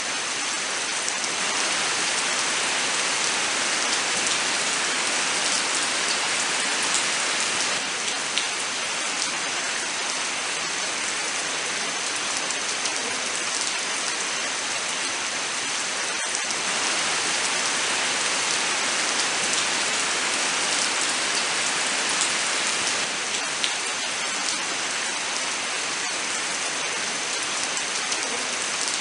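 Steady heavy rain falling in a forest: a constant hiss of rainfall with scattered sharp hits of single drops.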